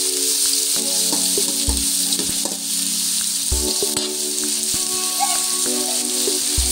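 Chopped tomatoes and shallots sizzling in hot oil in an aluminium kadai, just after the tomatoes go in, with a metal ladle clinking and scraping against the pan as it stirs. Background music with held chords that change every few seconds plays underneath.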